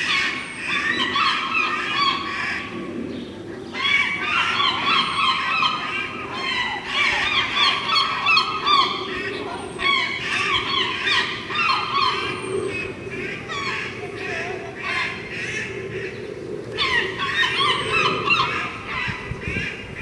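Birds calling: many short, harsh calls overlapping in bouts, with brief lulls between them.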